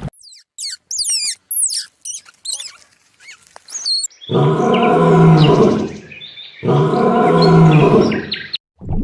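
A run of quick, high chirping bird calls, then two long, loud low animal calls, each about two seconds, held at a steady pitch.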